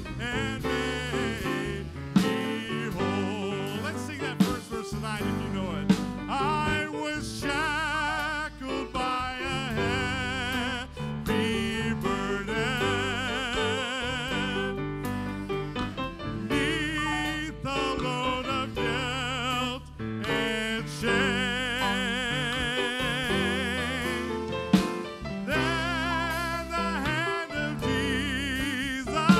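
Live gospel music: a band plays chords over a steady bass, under a lead melody with a wide vibrato. A few sharp hits stand out.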